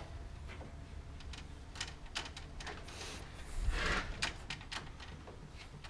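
Scattered light clicks and knocks of hand tools and parts being handled in a truck's engine bay during engine removal, with a brief scraping rustle a little past the middle.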